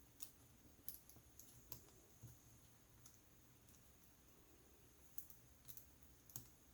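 Faint, irregular small clicks and ticks of laptop parts being handled: the display and camera cable connectors and their bracket being worked into place inside an opened ThinkPad.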